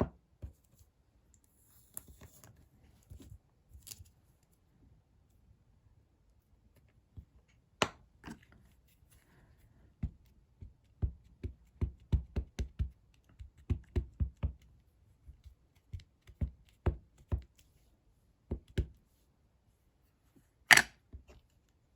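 Light knocks and taps of stamping tools and card being handled on a tabletop, thickest in a run of several a second through the middle, with a sharper click about eight seconds in and another near the end.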